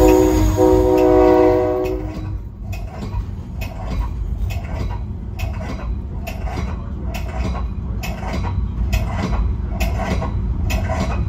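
Train horn sounding a multi-note chord, briefly broken about half a second in and cutting off about two and a half seconds in. Then the train's wheels click over rail joints in a steady rhythm, about two clicks a second, over a low rumble as the cars roll past.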